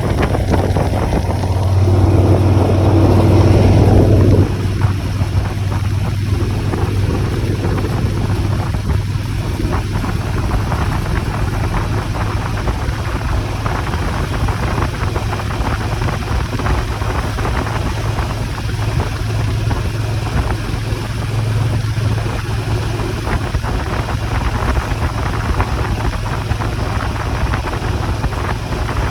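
Motorcycle engine running steadily with wind rushing over the microphone while riding; louder for the first four seconds or so.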